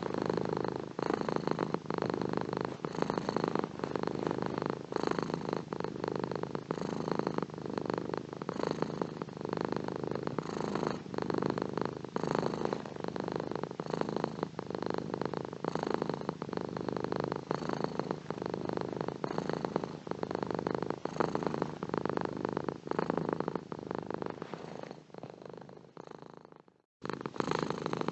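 Domestic cat purring steadily in a fast, even pulse. Near the end it fades, drops out for a moment, then starts again.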